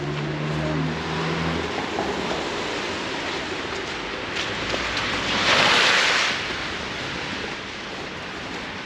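Blustery wind and street noise in a snowstorm, an even rushing hiss. A low engine hum fades out in the first two seconds, and a loud rushing whoosh swells and passes about five and a half seconds in.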